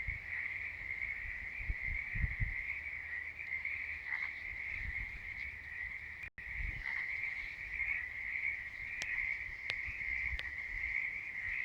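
Frog chorus: many frogs calling at once, merging into a steady high-pitched trilling. A few low thumps, and about six seconds in the sound cuts out for a split second.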